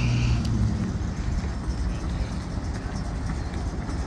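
Steady low rumble of car engines running, with a short car horn toot that cuts off about half a second in.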